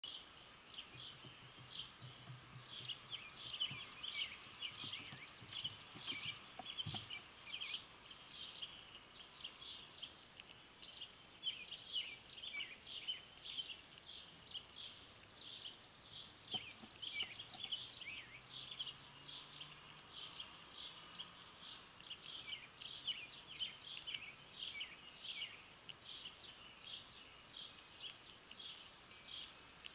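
Wild birds chirping over and over in short, falling notes, now and then joined by a fast, fine trill.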